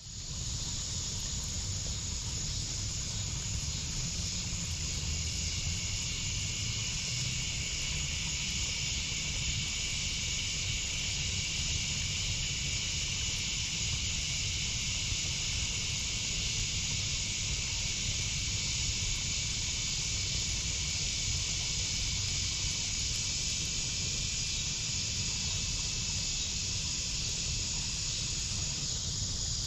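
Steady, high-pitched chorus of crickets and other summer night insects, over a low, steady rumble. No crackle or pop stands out.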